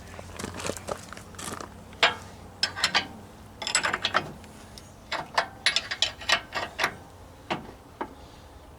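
Irregular metallic clicks and clanks of hand tools working on a skid steer's hydraulic cylinder mounting, coming in quick clusters.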